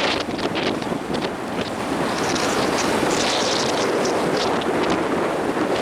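Typhoon-force wind blasting across the microphone in a continuous loud rumble, with storm waves and surf crashing and splashing underneath.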